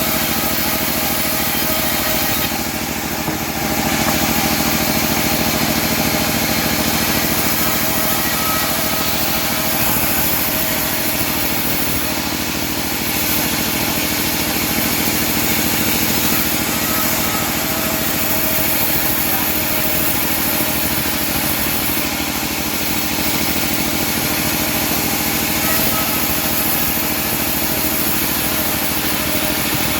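Homemade engine-driven bandsaw sawmill running steadily, a small engine drone mixed with the band blade sawing through teak wood.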